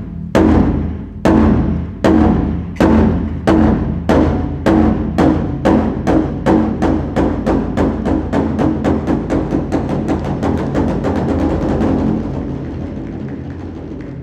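Japanese taiko drums struck in an accelerating series: single loud strikes a little under a second apart speed up steadily into a fast roll, which grows softer near the end.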